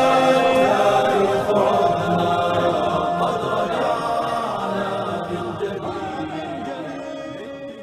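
A choir singing an Arabic nasheed a cappella, holding long drawn-out notes of the final line, fading out toward the end.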